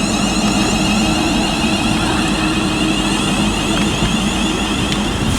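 Class 350 Desiro electric multiple unit pulling out of the platform: loud, steady running noise of wheels and traction equipment, with a high whine that climbs in pitch.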